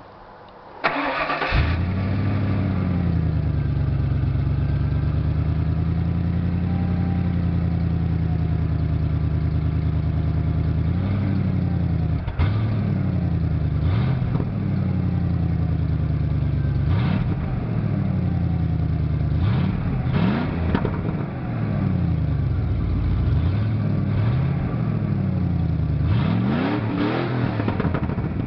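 A 1996 Ford F-150's 302 (5.0 L) V8, breathing through a catalytic converter and a Cherry Bomb muffler, cranks briefly about a second in and catches on a cold start. It settles into a steady fast idle, then in the second half is revved in a series of short blips, each rising and falling back to idle, several in quick succession near the end.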